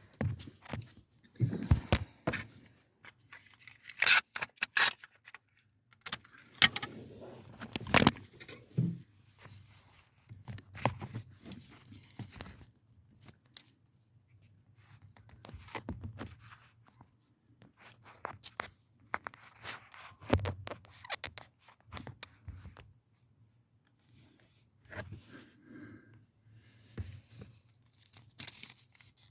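Hands working with small plastic car parts and tools: irregular clicks, taps, rattles and scrapes as a replacement actuator and its fittings are handled and pressed into place. The loudest knocks come about four and eight seconds in.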